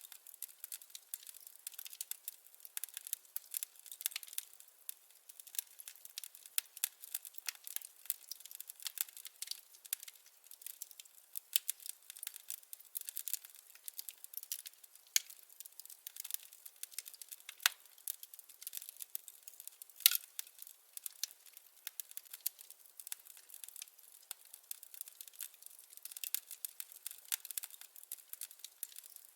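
Wood fire crackling: a dense, irregular run of small pops and snaps, with a louder pop about 18 seconds in and another about 20 seconds in.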